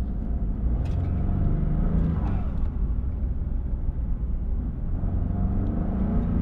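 2021 Ford F-150 EcoBoost twin-turbo V6 heard from inside the cab with the windows up, pulling with a low steady rumble. Its cold air intake and turbo spool give a whoosh that rises and falls about two seconds in.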